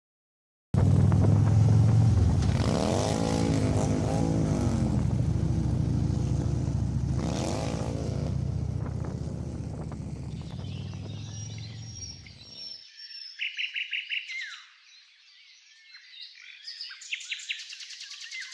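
A motorcycle engine revving up and down, fading over about ten seconds before cutting off abruptly. It is followed by birds chirping and trilling.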